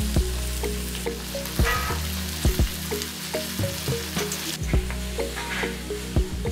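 Rice and fried vegetables sizzling in a steel wok, with a metal spatula scraping and clicking against the pan as the rice is stirred in.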